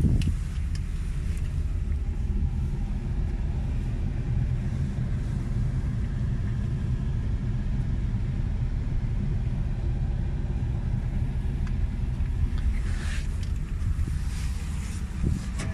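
Four-cylinder engine of a Chevrolet Lacetti (Gentra) sedan idling steadily, heard from inside the cabin.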